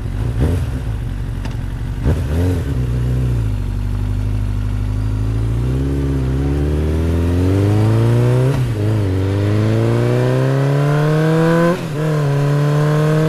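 Motor-scooter engine sound accelerating. The pitch climbs steadily and drops back briefly several times, as at gear changes.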